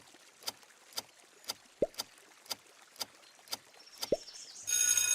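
A sound-effect countdown timer: clock-like ticks about twice a second, with a water-drop plop now and then. Near the end a bright, shimmering chime of several held tones comes in.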